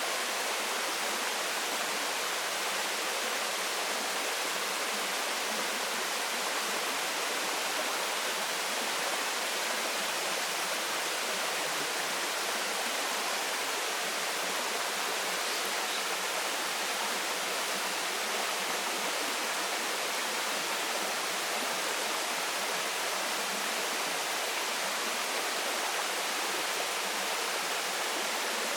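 Waterfall: water falling and splashing in a steady, unbroken rush, with a stream running below it.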